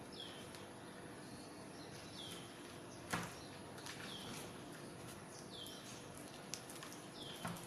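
A bird repeating a short, high, falling call about every two seconds over a steady background hiss. A few sharp knocks come in between, the loudest about three seconds in and two more near the end.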